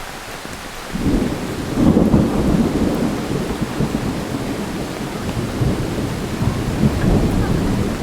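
Heavy rain falling steadily, with a long roll of thunder that breaks in suddenly about a second in, is loudest a second later, and rumbles on before easing near the end.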